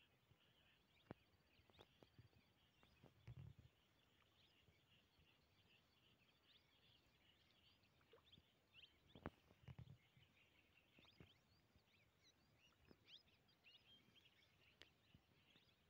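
Near silence with faint small-bird chirping throughout, a few sharp clicks, and two brief low thuds about three and ten seconds in.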